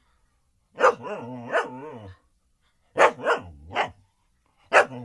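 A dog barking aggressively: about six sharp barks in short groups of two or three, with a low steady growl between the first two.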